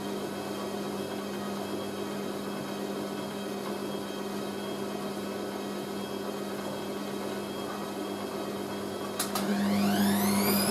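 Hoover A3060 washing machine tumbling its drum at distribution speed with a steady motor hum; about nine seconds in there is a click and the motor winds up in a rising whine as the drum accelerates into the intermediate spin, the towel load balanced and spinning smoothly.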